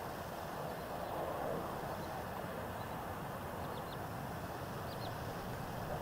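A steady outdoor rush of noise with a small bird chirping faintly in quick pairs of high notes, three or four times in the second half.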